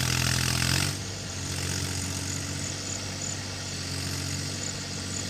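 Mahindra 275 DI SP Plus tractor's diesel engine running steadily at low speed, a little louder for the first second.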